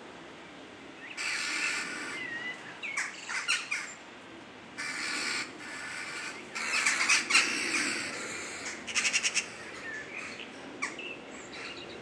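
Birds calling with harsh, squawking calls in several bouts. A quick run of short pulsed notes comes about nine seconds in.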